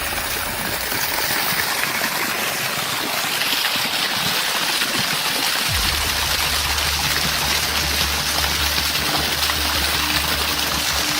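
Water pouring steadily out of a tree trunk. A low steady hum comes in about halfway.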